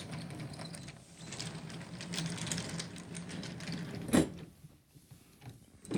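Toy train running along its track: a steady small-motor whir with a rattling clatter of wheels and cars, and one sharp clack about four seconds in.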